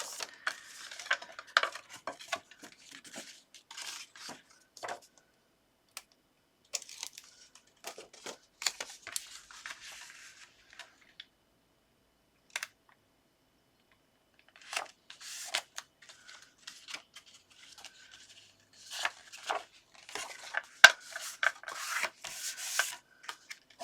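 Paper and cardstock being handled, rubbed and pressed down by hand, irregular rustling and scraping with small taps and clicks. A few seconds of near quiet fall in the middle, and the rubbing is busiest and loudest near the end, with one sharp click.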